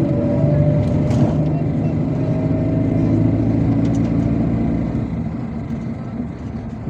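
MAZ-257 coach under way, heard on board: its engine runs with a steady note over road noise, and the sound eases off about five seconds in.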